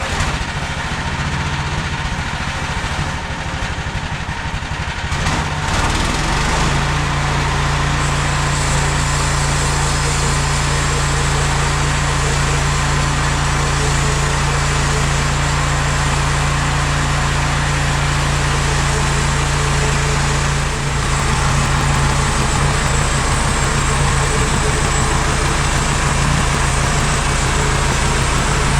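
Gasoline engine of a MechMaxx SM32 portable bandsaw mill running steadily. About six seconds in it picks up to a higher steady speed, and around twenty-one seconds its low note changes and it gets slightly louder.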